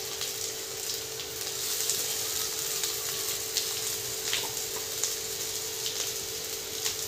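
Onion, chilli and freshly added mashed boiled potato sizzling steadily in hot oil in a steel kadhai, with a constant low hum underneath and a few faint clicks.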